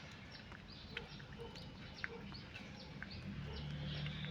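A bird cheeping over and over in short, high, falling peeps, about three a second, with a few faint clicks. A low steady hum starts about three seconds in.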